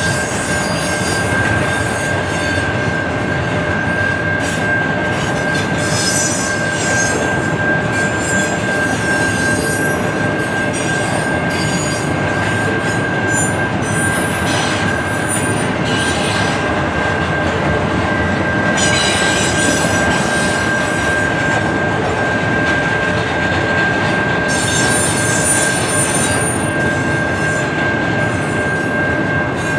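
Railroad cars rolling past with a steady high-pitched wheel squeal, and higher screeching from the wheels coming and going several times.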